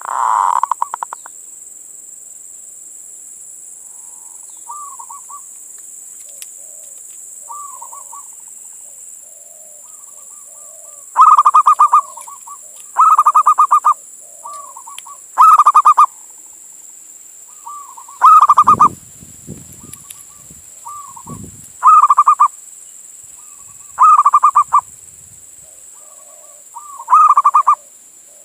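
Male zebra dove (perkutut) cooing its song in short rattling coo phrases. The phrases are faint at first, then from about ten seconds in come loud about every two seconds.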